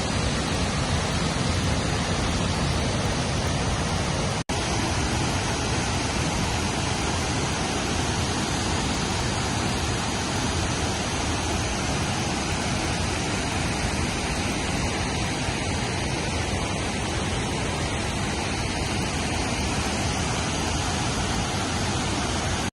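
Steady rushing noise, with a brief dropout about four and a half seconds in.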